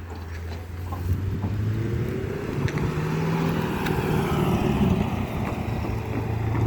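A car driving past on the road, its sound building over the first few seconds and its pitch falling as it goes by.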